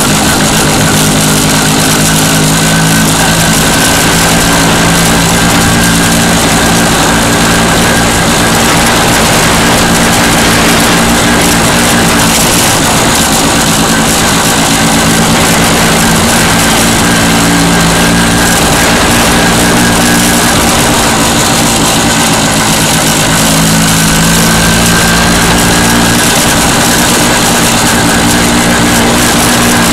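MZ motorcycle engine running at a steady road speed, loud, its note shifting slightly a few times as the throttle changes. An even hiss of wind and road noise runs under it.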